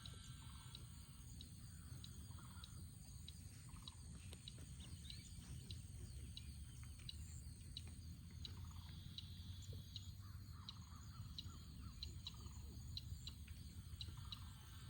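Faint outdoor animal sounds around a pond: many short, sharp clicks and scattered brief chirps from small creatures such as insects or frogs, over a steady low rumble.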